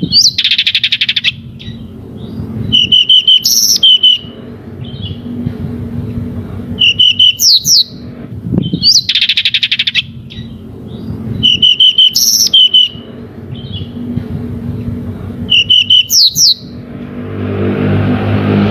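Pied bushchat (decu) singing: short repeated phrases of quick chirps, trills and high whistles every few seconds. A vehicle's noise rises near the end.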